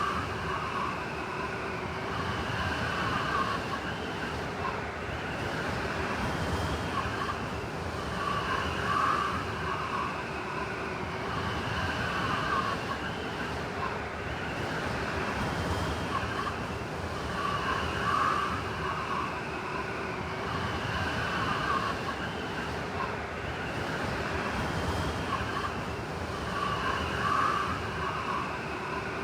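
Blizzard wind blowing in a steady rush, with a high whistling howl that swells in gusts about every nine seconds.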